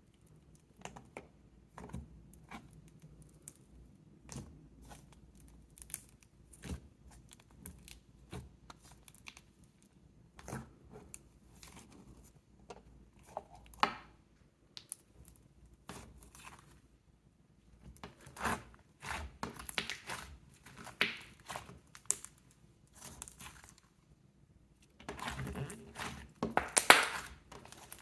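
Hands playing with slime, here Slime Fantasies' Brown Sugar Shaken Espresso slime. It makes scattered sticky clicks and pops, then denser crackling and tearing sounds as it is stretched and pressed, loudest near the end.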